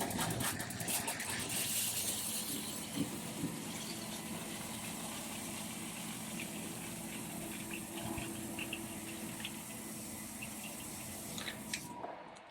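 Freshwater pump running while water gushes through the new lines, on a first leak test, then cutting off near the end.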